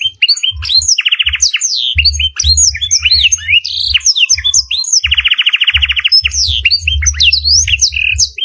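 A domestic canary singing a fast, continuous song full of blackthroat-style phrases: quick rising and falling whistled sweeps, with two rapid rolled trills, about a second in and again about five seconds in. An intermittent low thumping runs underneath.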